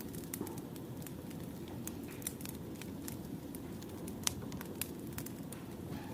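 Wood fire burning, with a steady low rush and frequent irregular pops and crackles of burning logs; the sharpest pop comes a little after four seconds in.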